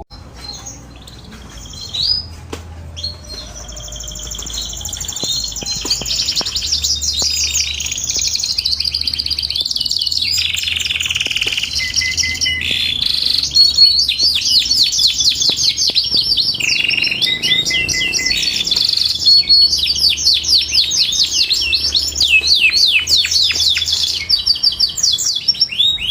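Domestic canary singing a long, unbroken song of rapid trills and rolling repeated phrases, building from faint to loud over the first few seconds.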